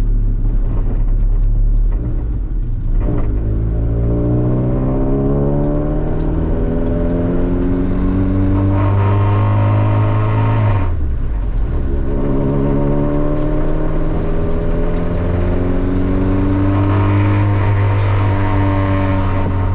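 Honda Civic engine heard from inside the cabin, pulling with its pitch climbing steadily, dropping suddenly about halfway through, then climbing again, over a heavy low drone. The car is being run up through the revs to find a cabin vibration that sets in around 3,000 rpm.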